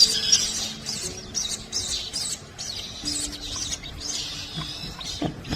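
Hungry baby terns and black-winged stilt chicks cheeping constantly, many short high chirps overlapping, as they beg while being hand-fed small fish.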